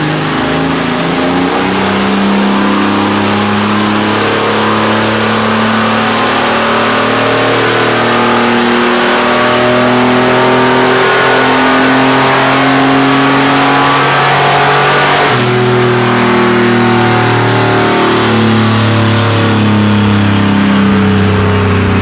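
Turbocharged 4.3 L V6 of a 1992 GMC Typhoon under full throttle on a dyno pull. A high whine climbs steeply, then holds and creeps slowly upward for about fifteen seconds. It drops away as the throttle closes.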